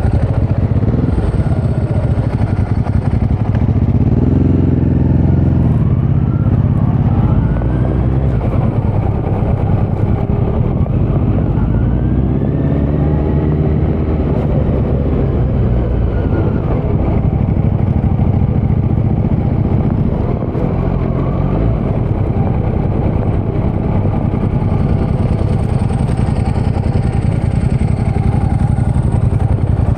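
Kawasaki Z900's inline-four engine, exhaling through a Leo Vince muffler with no dB killer, running loud under way. Its note climbs and falls back about four seconds in, then again more slowly from about twelve to sixteen seconds in, and holds steady between.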